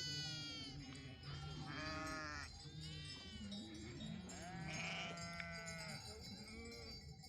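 A flock of sheep bleating, with several separate calls a second or so apart, some of them overlapping.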